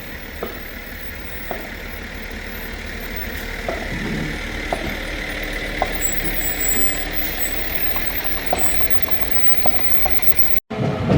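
Fire truck engine running at low speed, a steady hum with a few light clicks; the sound cuts out for a moment near the end.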